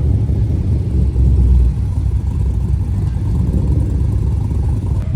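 A car engine running with a steady, deep low rumble.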